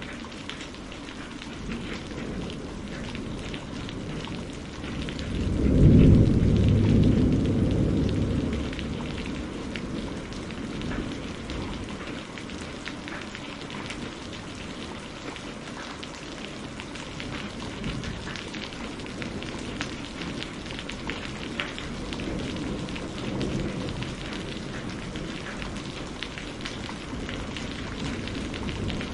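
Steady rain pattering, with a deep roll of thunder about five seconds in that swells, is the loudest thing heard, and fades over about four seconds. A softer rumble follows later.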